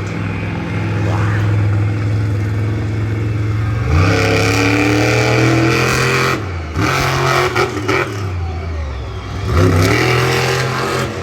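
Monster truck engine idling with a steady drone, then revved up three times, each surge climbing in pitch and dropping back.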